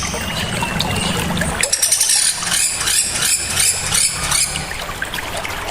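Small songbirds calling: a thin whistle, then a quick run of sharp, high-pitched repeated chirps in the middle, with a low hum underneath.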